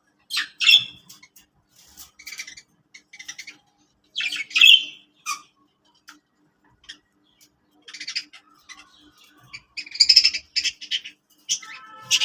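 Budgies chattering, with short squawks and chirps in irregular bursts; the loudest come about half a second in, around four and a half seconds in and again near ten seconds.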